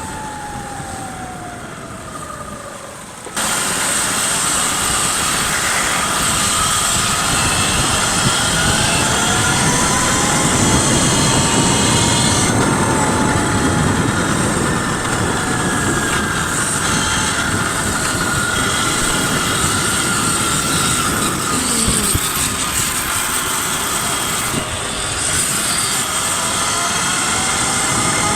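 Electric bike motors whining, their pitch rising and falling, over a steady rush of riding noise. The sound jumps suddenly louder about three seconds in.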